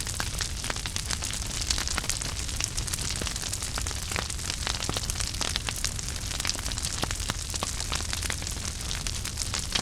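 Wood fire burning in a fireplace, with a steady low rumble and many irregular sharp crackles and pops.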